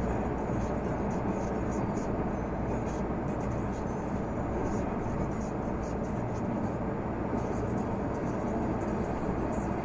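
Renault Magnum 480 truck's six-cylinder diesel running steadily under way, a constant engine drone mixed with road noise, heard from inside the cab.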